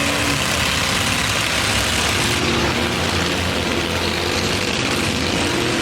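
Demolition derby trucks' engines running together, a steady loud engine noise.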